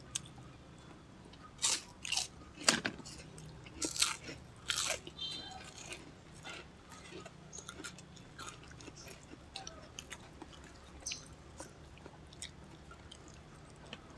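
Close-up chewing and crunching of food in the mouth, with several loud crunches between about one and a half and five seconds in, then quieter, scattered chewing.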